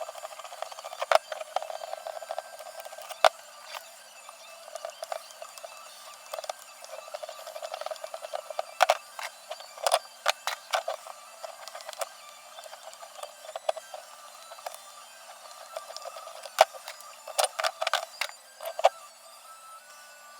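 Irregular sharp clicks and knocks over a faint hiss, coming more thickly in quick clusters near the end.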